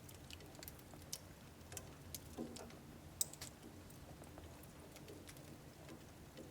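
Wood burning in a household wood stove: faint, irregular crackles and pops, the sharpest about three seconds in, over a low steady hum.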